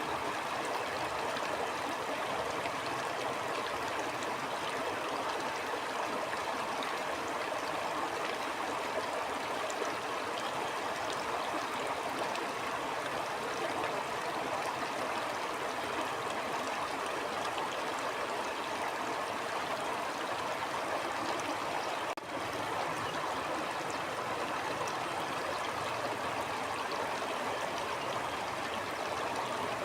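Stream water flowing steadily, a continuous rushing babble, with a momentary drop in level about two-thirds of the way through.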